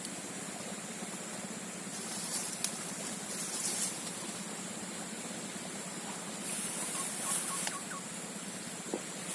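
Swamp ambience: insects calling in short high-pitched buzzing bursts over a steady hiss, with a few faint clicks.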